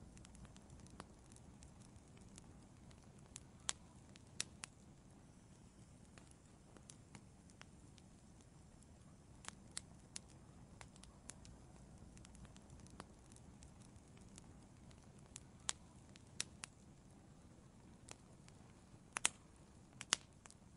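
Wood fire crackling in an outdoor fireplace: faint, irregular sharp pops and snaps over a low steady rumble, with a quick cluster of louder pops near the end.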